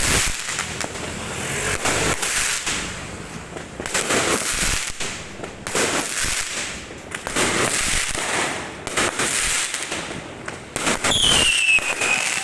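Fireworks going off: a steady run of bangs and crackling, with a falling whistle near the end.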